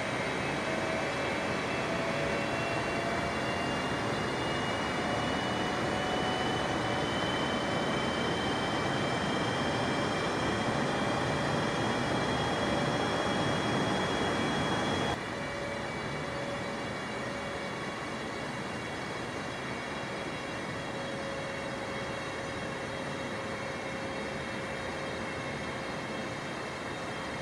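Jet airliner engines: a steady rush of jet noise with a high fan whine that slowly rises in pitch. About halfway through it cuts off abruptly to a slightly quieter, steady jet sound with an even whine.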